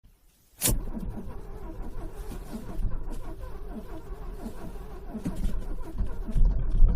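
A sharp click about a second in, then a car's starter motor cranking a cold engine that struggles to start, growing louder near the end.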